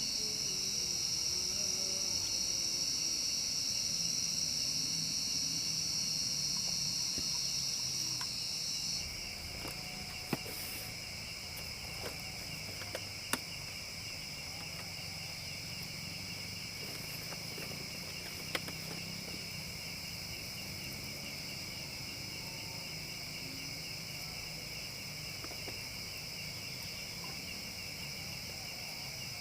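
Insects chirping steadily in a high-pitched, pulsing chorus; the loudest chirping drops away about nine seconds in, and a few sharp clicks sound over it.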